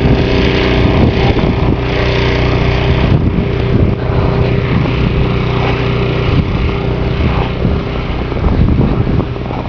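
Wind buffeting the microphone in a snowstorm, with a steady engine hum underneath that fades after the first few seconds.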